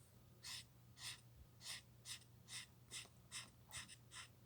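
Faint scratching of an alcohol marker's nib stroked back and forth on paper while colouring in, about two strokes a second.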